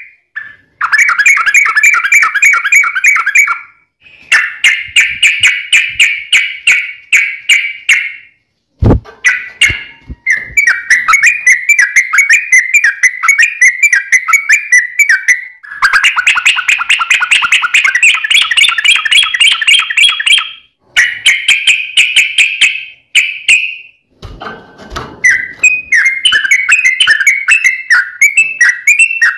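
Yellow-vented bulbul singing long, rapid runs of chattering, bubbling notes, in loud phrases of a few seconds each broken by short pauses. A sharp click sounds about nine seconds in.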